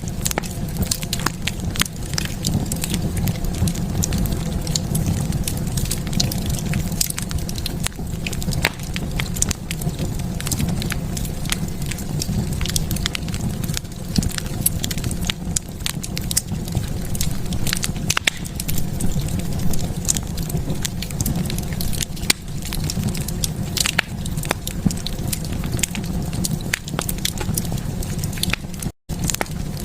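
Wood fire burning in a fireplace: a steady low rumble of flames with frequent irregular crackles and sharp pops. The sound cuts out completely for a split second near the end.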